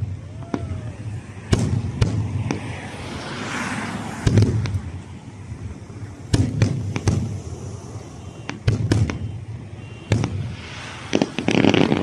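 Fireworks display: aerial shells bursting with sharp bangs at irregular intervals, several in quick clusters. A dense stretch of crackling comes near the end.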